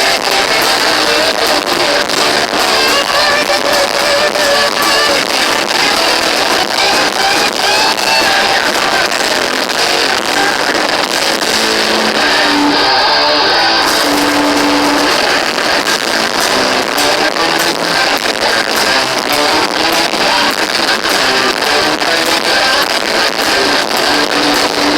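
Heavy metal band playing live and loud, with distorted electric guitars and steady drum hits. It is heard from the audience on a harsh, thin recording with almost no bass.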